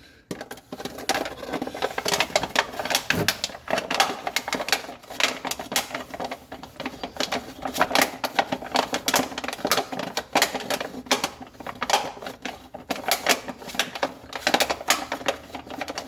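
Dense, continuous crackling and clicking of hands working a loosened oil filter off, with a cover slipped over it to catch the oil.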